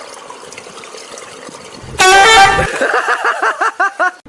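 A farm animal's loud honking call: one long blast about two seconds in, then a quick run of shorter repeated honks that die away.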